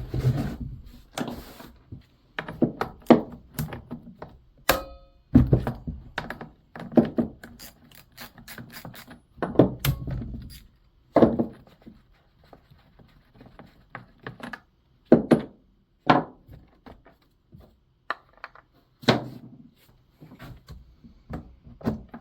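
Irregular clanks, clicks and knocks of tools and metal parts as the bar and chain are taken off a STIHL 019 chainsaw, with one short ringing metallic clink about five seconds in.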